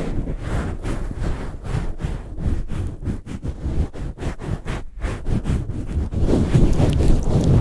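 ASMR mic pumping and swirling: hands cupping and rubbing over the microphone, a muffled low rumble that swells and fades irregularly, with a few sharper clicks near the end.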